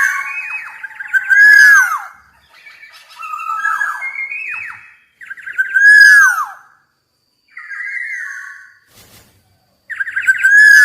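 Black-naped oriole singing: about five fluty whistled phrases, each ending in a falling slurred note, with short pauses between them.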